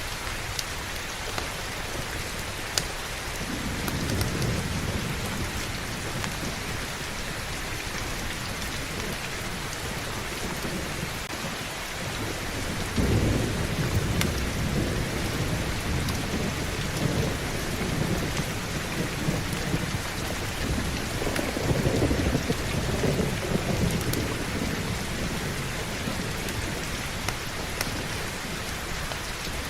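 Steady heavy rain with rolling thunder: a low rumble about four seconds in, a louder, longer one around thirteen seconds, and another around twenty-two seconds.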